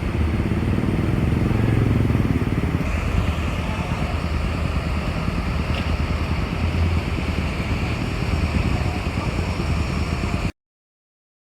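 Hino AK240 bus engine running steadily with vehicle noise, swelling briefly about two seconds in; the sound cuts off abruptly near the end.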